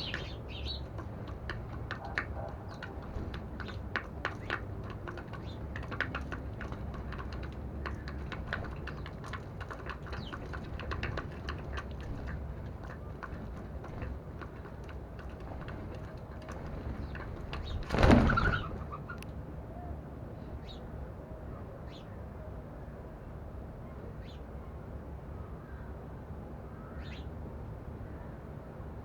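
Sparrows and a dove feeding from a dish: many small quick taps of beaks pecking at seed over the first half. About two-thirds of the way through comes one sudden loud flurry of wings, and a few short chirps follow.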